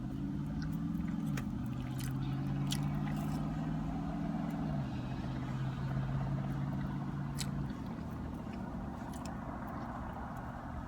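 A motor vehicle's engine running close by, its steady hum stepping down in pitch twice and then dying away about three quarters of the way through, with a few light clicks.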